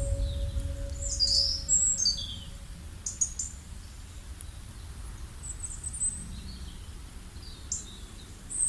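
Birds chirping in scattered short, high calls and quick falling notes, over a low steady background rumble. A held musical tone fades out during the first couple of seconds.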